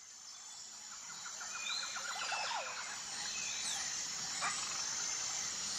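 Outdoor ambience fading in: a steady high-pitched insect-like hum with scattered bird chirps, and a quick run of short trilled notes about two seconds in.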